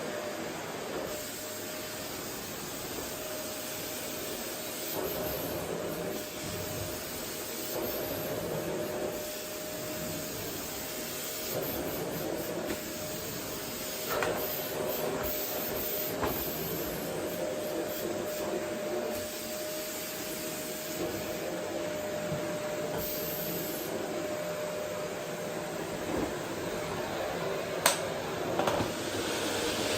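Vacuum cleaner running steadily, a constant whine over a rushing hiss, with a few light knocks and clicks along the way.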